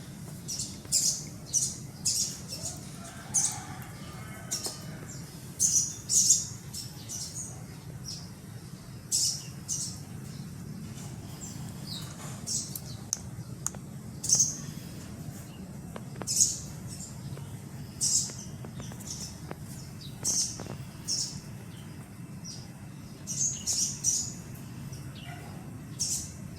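Baby sun conure chicks chirping in short, high-pitched calls that come irregularly, about one or two a second, over a low steady hum.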